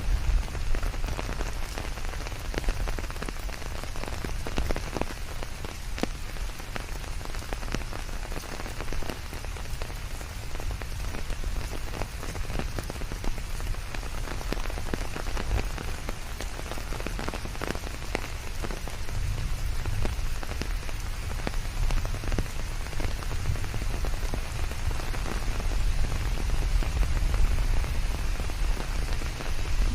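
Steady rain falling on leaves, with many close drops ticking and a low rumble underneath that swells a little in the second half.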